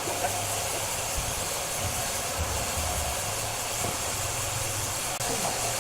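Wood-cutting saw machine running steadily: a constant hiss over a low hum.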